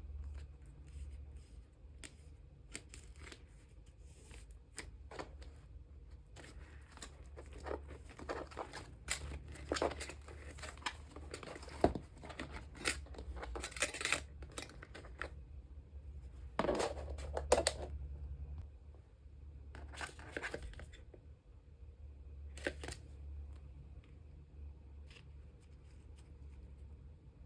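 Plastic packaging and card sleeves rustling and crinkling as photocards are handled, with scattered sharp clicks and taps. It is busiest in the middle and quieter near the end.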